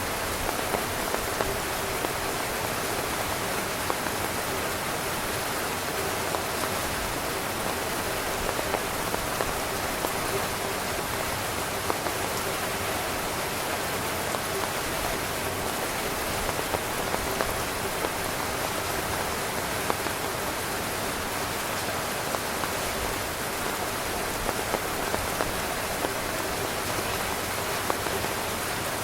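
Heavy rain falling steadily on a tent, with frequent small, sharp drop hits standing out from the even hiss.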